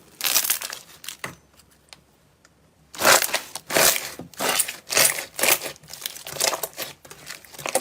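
Slime being squeezed and pressed by hand, giving a noisy crackle lasting about a second, then from about three seconds in a steady run of squeezes about two a second.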